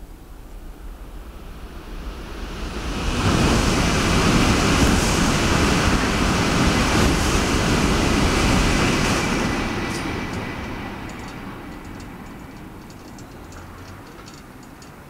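Shinkansen high-speed train passing at speed: a rush of wheel and air noise that builds over about three seconds, stays loud for about six, then fades away. A thin, steady high whine runs through the loud part.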